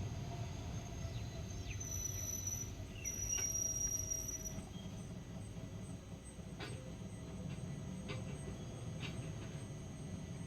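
Passenger express train slowing to a stop: a low rumble that fades gradually, with two short high-pitched wheel or brake squeals about two and three and a half seconds in, and a few scattered clicks.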